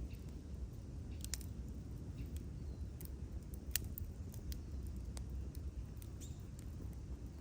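Wood campfire burning, with irregular sharp crackles and pops over a steady low rumble, one pop louder than the rest a little past the middle.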